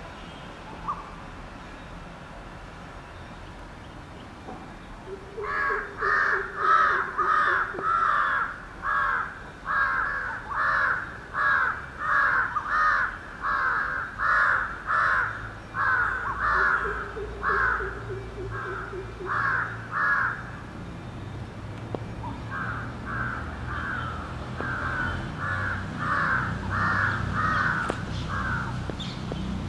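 A crow cawing over and over in a long run of short harsh calls, about one and a half a second, pausing briefly in the middle. A low rumble builds underneath in the second half.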